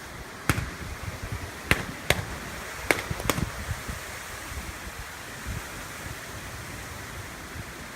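Overhead power lines arcing: five sharp electrical snaps in the first few seconds over a steady hiss, then only the hiss.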